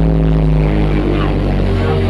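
Loud music played through a large sound system, with heavy held bass notes that step in pitch.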